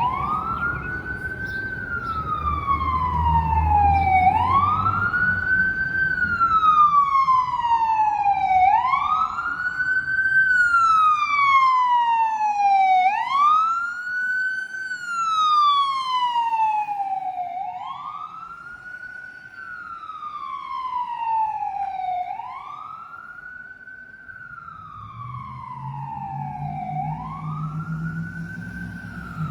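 Fire truck siren wailing, sweeping up quickly and falling back slowly about every four and a half seconds. A heavy truck engine rumbles underneath at the start and again near the end.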